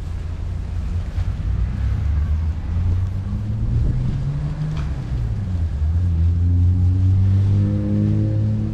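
A motor vehicle's engine running close by, its low hum rising in pitch, dipping, then holding steady and getting louder near the end, over wind noise on the microphone.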